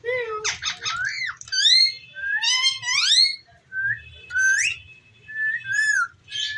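Indian ringneck parakeet whistling and chirping: a quick string of high calls that swoop up and down in pitch, in short runs with brief pauses between.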